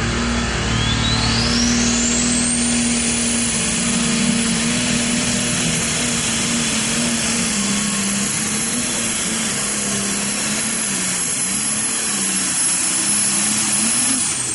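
Diesel super stock pulling tractor under full power during a pull, its turbocharger whistle climbing steeply in pitch over the first few seconds and then holding high over the steady engine. Near the end the whistle falls away as the throttle comes off.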